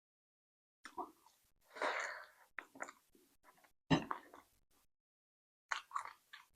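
Close-up chewing of food, in about five short bursts with dead silence between, the sharpest and loudest about four seconds in.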